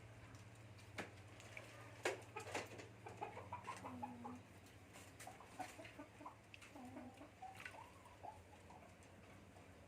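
Caged birds calling softly in short, low notes, with a few sharp clicks and knocks in the first few seconds over a steady low hum.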